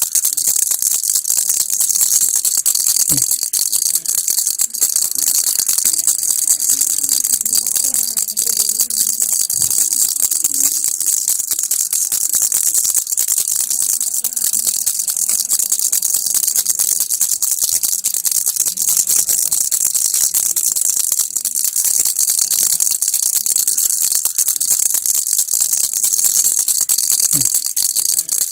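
Baby rattle (kilukki) shaken continuously: a dense, steady, high-pitched rattling of small pieces inside, with no break.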